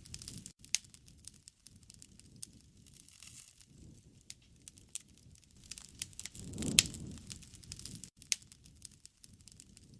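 Wood bonfire crackling with many scattered sharp pops over a low rush of flame. The rush swells about two-thirds of the way through, topped by the loudest pop.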